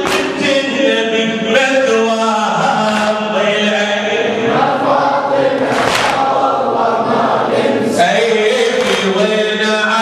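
Men's voices chanting a Shia mourning elegy (latmiyya) together as a chorus, steady and continuous.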